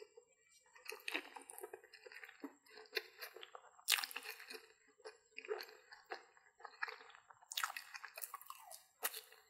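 Biting into and chewing corn dogs: a string of irregular mouth and chewing sounds, with the sharpest bites about four seconds in and twice near the end.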